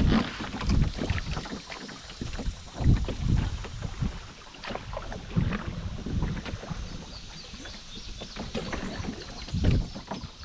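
Canoe paddle strokes dipping and splashing in river water, coming unevenly every second or two, with a calmer stretch about two-thirds of the way through.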